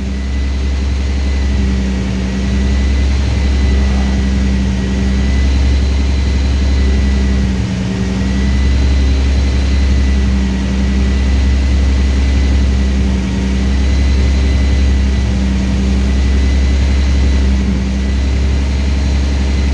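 Twin-turbo MG Midget engine idling on its first start-up at around 1,200 rpm with idle advance switched off, a deep steady rumble with a faint high whine above it. The idle swells and eases slightly every few seconds, which the owners wonder may be the idle chasing.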